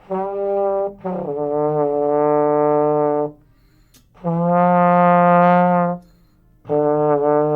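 Trombone playing a short note, then three long held notes with brief gaps between them, on the two notes F and D.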